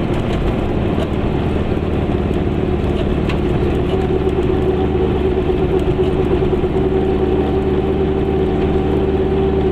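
Goggomobil's two-stroke twin-cylinder engine running steadily on the move, heard from inside the small car along with tyre and road noise. The engine note grows a little stronger about four seconds in.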